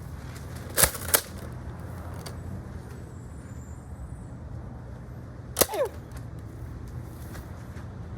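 Three sharp hits or clicks over a steady low hum: two close together about a second in, and one more near six seconds in, followed by a short falling tone.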